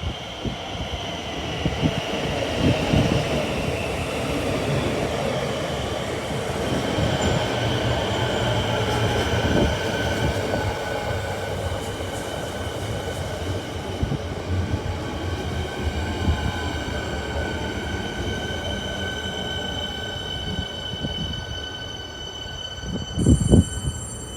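Electric suburban train running through the station: a constant rumble of wheels on rails under several high-pitched whining tones that fall slightly in pitch over the first few seconds and then hold steady. A short thump comes near the end.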